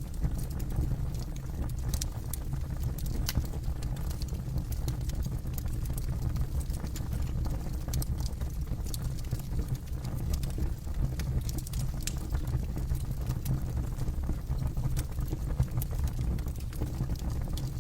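Campfire burning, its wood giving off irregular sharp crackles and pops over a steady low rumble.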